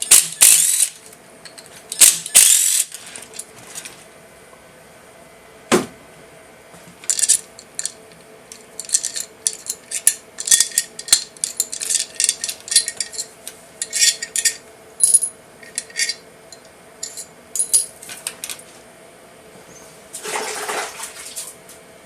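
Handling of metal at a CNC mill after a cut: a few short bursts of hiss, one knock, then a long run of light metallic clicks and clinks, over a steady machine hum.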